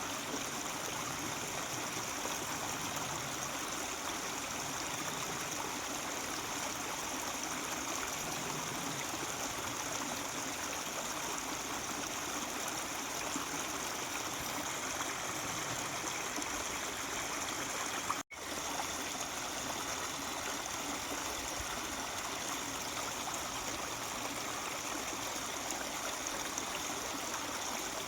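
Mountain stream murmuring steadily, with a split-second dropout to silence about two-thirds of the way through.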